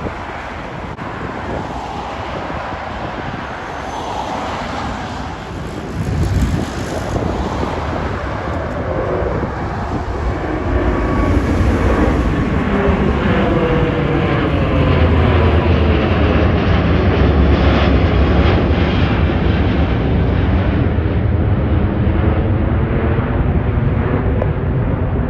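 Jet airliner passing low overhead. Its engine noise builds over the first several seconds to a loud, deep rumble that holds through the second half, with a sweeping, phasing tone as it goes over.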